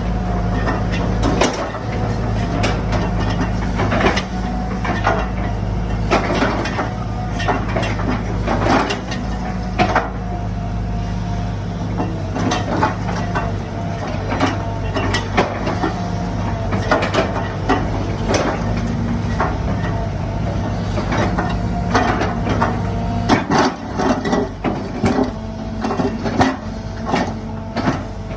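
Sumitomo SH120-1 hydraulic excavator's diesel engine running steadily, with frequent knocks and clicks from the machine; the engine note shifts about two-thirds of the way through.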